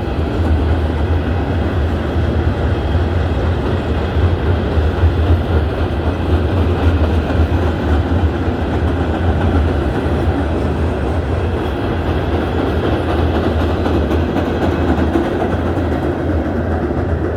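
Empty coal hopper cars of a Norfolk Southern freight train rolling past on the rails, a steady, loud noise of wheels on track.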